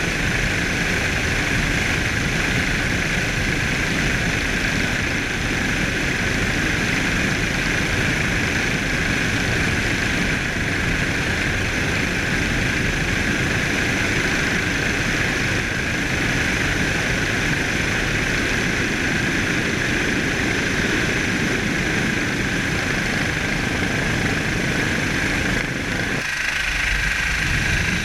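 Steady drone of a helicopter's turbine engine and rotor, with a strong whine and a rumble underneath.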